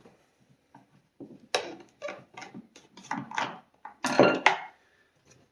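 Clatter of things being handled on a workbench: a run of short knocks and clinks, loudest about a second and a half in and again about four seconds in.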